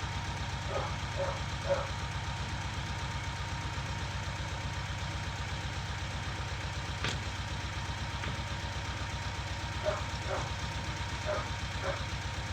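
Walk-behind motor tiller running steadily as its tines mill the garden soil, with occasional short knocks and one sharp click about seven seconds in.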